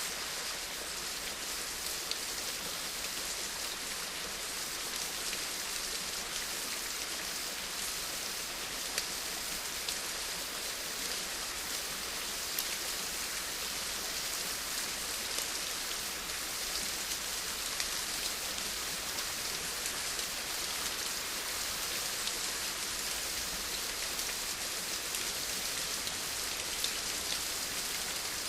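Steady rain falling, an even hiss with occasional single drop ticks standing out.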